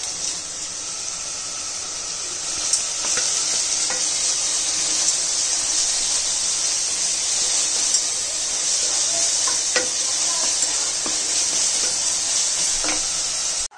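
Chopped onions and green chillies frying in oil in a steel pot, a steady sizzle, while a wooden spatula stirs them and now and then knocks lightly against the metal.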